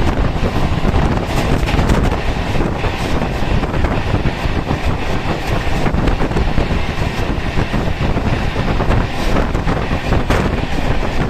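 Coromandel Express passenger train running at speed: a steady rumble of wheels on the track with occasional faint clicks, and wind buffeting the microphone.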